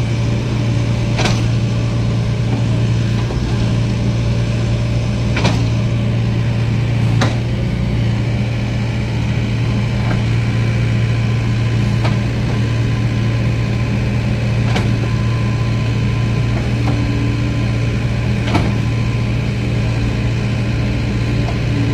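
Excavator's diesel engine running steadily while it digs out coal slag from a barge's hold, with a few sharp knocks at irregular intervals.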